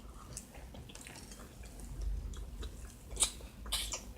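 A person chewing and smacking their lips while eating huevo con chorizo, close to the microphone, with a sharp click a little after three seconds in.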